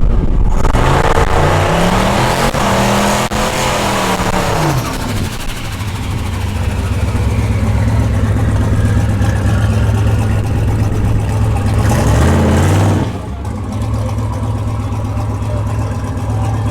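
Car engine, plausibly the single-turbo LS engine of a 1975 Chevrolet Caprice, revved up and back down over several seconds and then left idling steadily. A short blip of the throttle comes about twelve seconds in.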